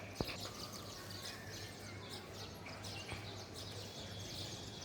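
Many small birds chirping together in quick, overlapping short calls, with one sharp click just after the start.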